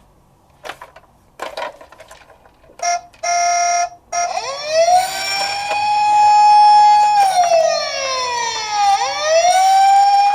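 Emergency-vehicle siren wailing: it rises about four seconds in, holds, slides down and rises again near the end. It comes after a few faint clicks and two short electronic beeps.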